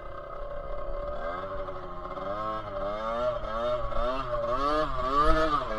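Off-road motorcycle engine revving, its pitch rising and falling over and over as the throttle is opened and closed, getting louder toward the end.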